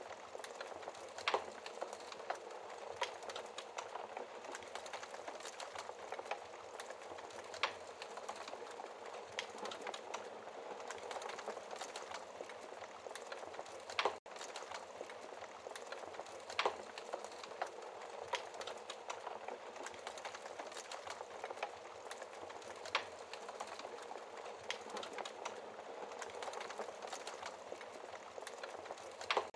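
Wood fire burning in a fireplace: a steady hiss of burning logs, with sharp crackles and pops of the wood every second or two.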